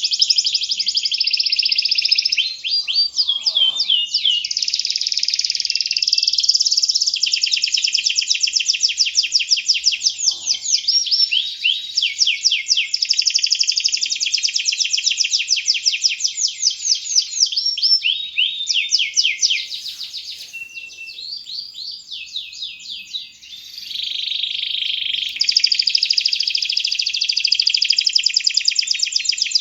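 Domestic canary singing a long, continuous high-pitched song of fast rolling trills and rapid repeated notes, with a brief softer passage about two-thirds of the way through.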